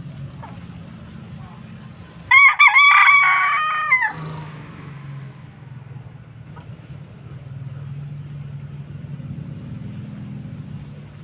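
A rooster crowing once, about two seconds in: a choppy start, then a held note lasting about two seconds that drops away at the end. A steady low hum runs underneath.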